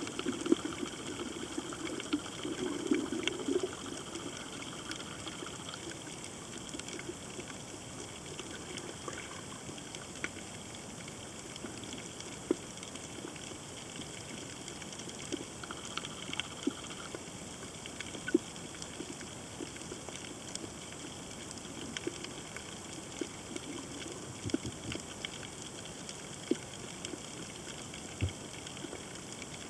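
Underwater coral-reef ambience picked up by a submerged camera: a steady hiss scattered with sharp clicks and crackles, and a gurgling burble in the first few seconds.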